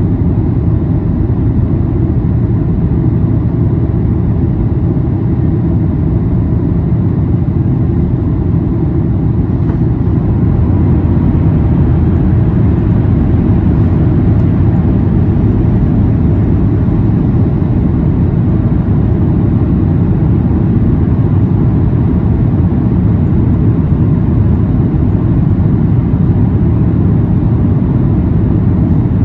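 Steady low rumble inside the cabin of a Boeing 737-800 during landing, the noise of its engines, airflow and running gear heard from a window seat, growing slightly louder about a third of the way in.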